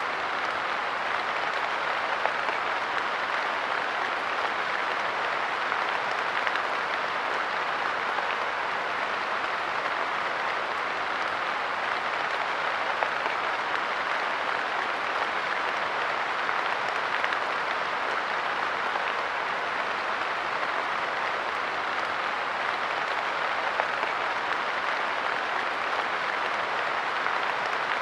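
Steady light rain pattering on a park bench, a dense even hiss of fine drops.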